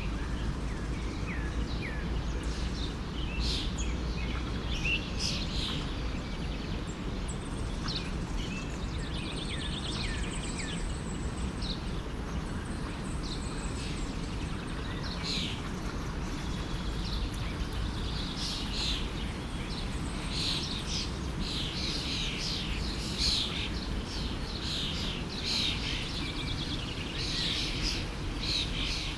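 Small birds chirping and singing over the steady rush of a forest stream. The chirping is busier in the second half.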